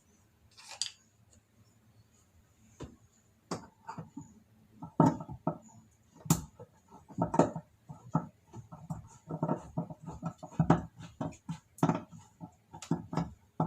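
Irregular metallic clinks and knocks of a wrench working at a washing machine's pulsator fastening. A few scattered at first, then coming in quick clusters.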